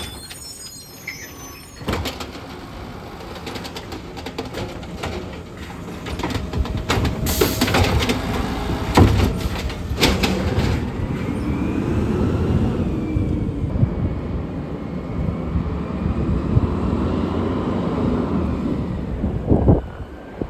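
A garbage truck working, its engine running throughout. About six to eleven seconds in come a run of knocks and clanks, then a whine that slowly rises and falls in pitch, with one sharp knock near the end.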